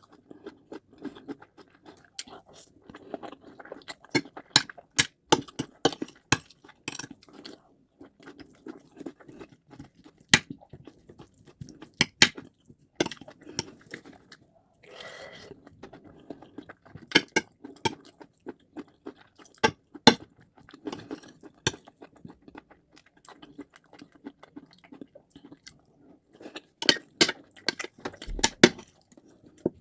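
Close-up chewing of white rice and stew, wet mouth sounds broken by many sharp clicks and smacks, in clusters rather than a steady beat.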